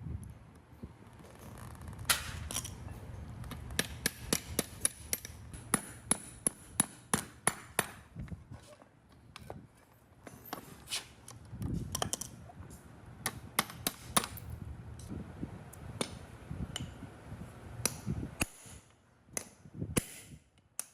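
A hammer striking metal again and again, in irregular runs of sharp blows, over a low steady hum.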